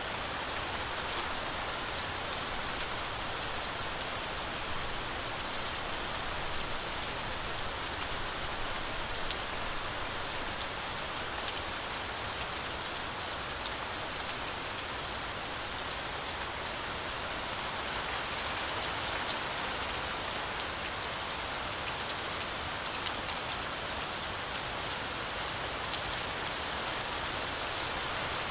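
Heavy rain falling steadily through a forest canopy, a dense even hiss with many fine drop ticks.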